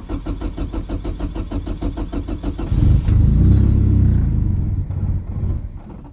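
Car engine cranking on the starter in an even pulsing rhythm for about three seconds, then catching and running loudly for a couple of seconds before fading out near the end. It is a hard cold start, which the owner thinks might be bad gas but also blames on a wiring harness he plans to replace.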